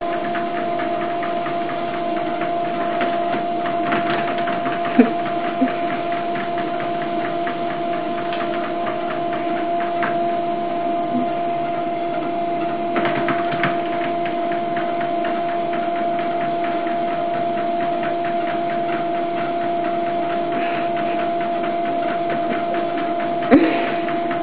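Electric treadmill running with a steady motor whine and belt hum, with a few light knocks along the way, the loudest near the end.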